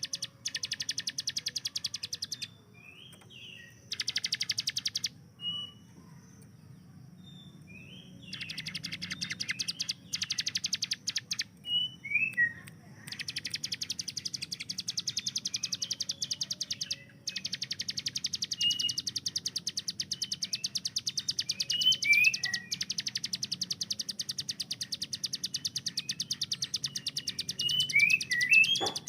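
Hill prinia (ciblek gunung) singing its rapid, machine-gun-like trill in bursts, from about a second to over ten seconds long, with short high down-slurred chirps in the pauses between them.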